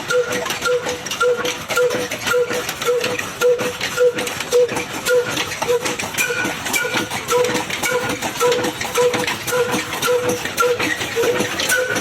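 Old single-cylinder Ruston Hornsby diesel engine running steadily while driving a chaff cutter, with a rhythmic beat about twice a second over a dense mechanical clatter.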